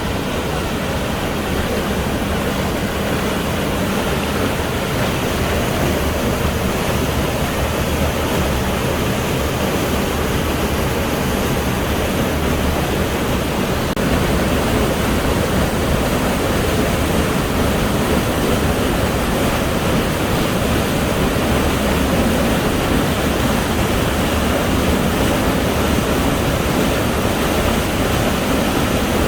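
Waterfall pouring into a rock pool: a steady, dense rush of falling water that gets a little louder about halfway through.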